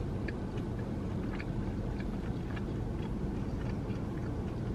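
Quiet chewing of a chicken tender, with faint scattered mouth clicks over a steady low rumble in the car cabin.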